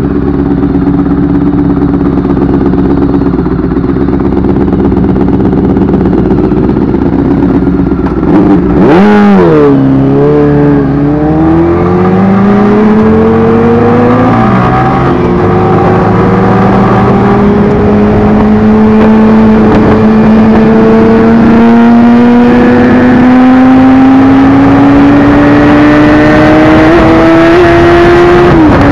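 Motorcycle engine idling steadily at a stop, then revving sharply about nine seconds in as the bike pulls away. It accelerates through the gears with its pitch climbing and dropping at each gear change, the last change near the end, as wind noise grows with speed.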